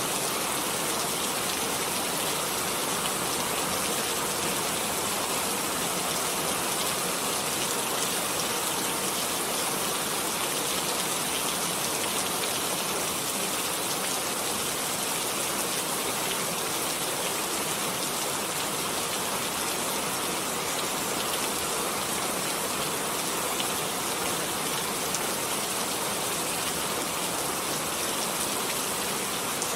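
Steady rainfall, an even, unbroken hiss of rain falling on surfaces.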